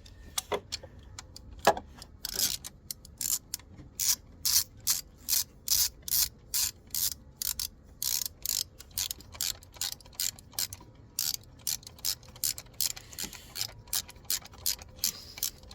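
Hand ratchet wrench clicking as it tightens the bolt of a newly fitted belt tensioner pulley on a Mercedes W204 engine, in an even run of quick strokes, about three a second.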